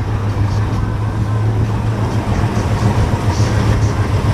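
A car engine idling steadily with a low, even note.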